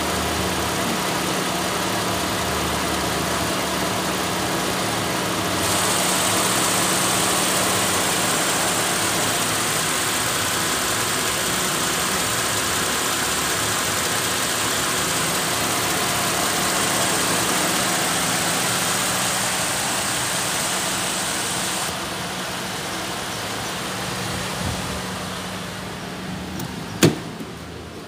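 Holden Commodore's 3.6-litre Alloytec V6 idling steadily, heard under the open bonnet. A high hiss is added through the middle stretch. Near the end the engine sound gets quieter and a single sharp click is heard.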